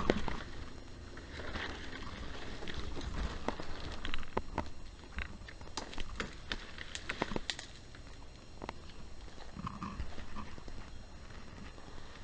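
A hiker's footsteps on a trail: a run of irregular knocks and clicks, about two a second and thickest midway, over a low rumble from a chest-worn camera.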